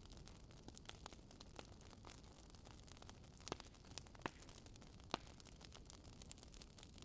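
Wood fire crackling: scattered small snaps and pops over a faint hiss, with a few sharper pops in the middle.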